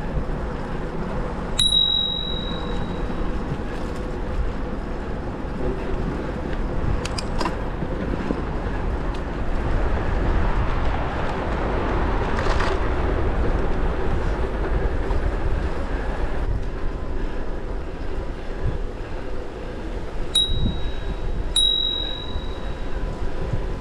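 Bicycle bell on a moving bike rung three times: a single high ding about two seconds in, then two more in quick succession near the end, each ringing on for about a second. Steady rumble of riding noise underneath.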